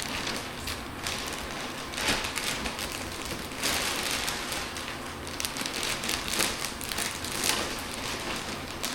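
Plastic vacuum storage bag crinkling and rustling as clothes are stuffed into it by hand, an irregular crackle that swells and eases.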